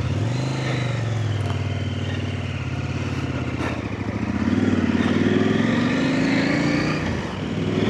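Trail motorcycle engine running, its note lifting briefly right at the start, with an engine note climbing slowly in pitch through the second half.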